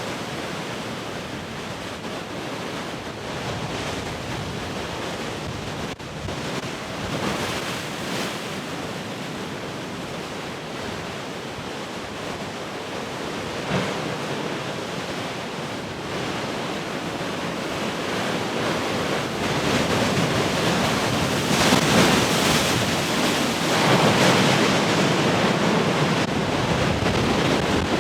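Heavy ocean surf washing continuously, swelling louder about two-thirds of the way in as bigger waves break, with wind buffeting the microphone.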